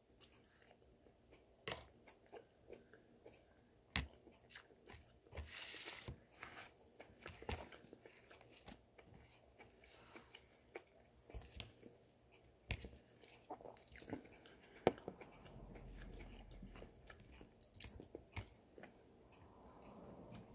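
A person chewing a mouthful of food, with scattered sharp clicks and a few soft crunches.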